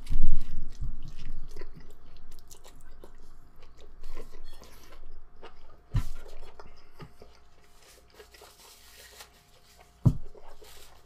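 A person biting into a large beef burrito and chewing it with wet mouth clicks and smacks, loudest at the first bite. A dull knock comes about six seconds in and again near the end.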